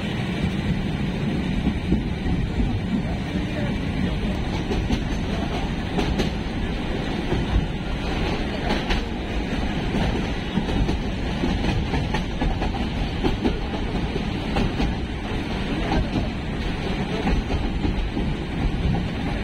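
Passenger train running at speed, heard from inside a carriage with its window open: a steady rumble and rattle of the wheels on the track, with a few faint clicks.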